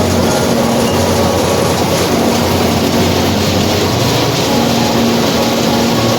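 Tractor-powered mustard thresher running: a loud, steady, dense mechanical noise with a low hum underneath.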